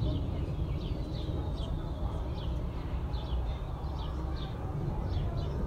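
Small birds chirping over and over in short, high, falling notes, over a steady low rumble of background noise.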